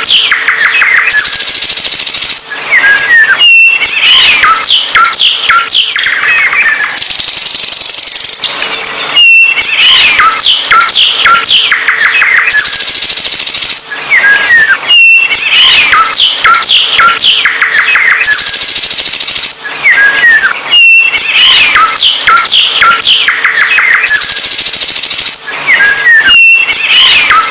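A songbird singing loudly and busily: rapid chirps, trills and sharp whistles. The same sequence of song repeats about every six seconds, as a looped recording would.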